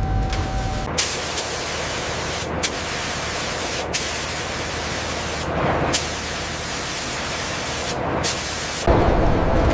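A steady, even spraying hiss that starts abruptly about a second in. It is broken by a few brief clicks and gaps, and gives way near the end to a lower, rougher noise.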